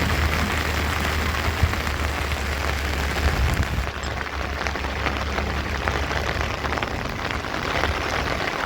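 Heavy rain falling steadily, full of small pattering drop hits, over a continuous low rumble.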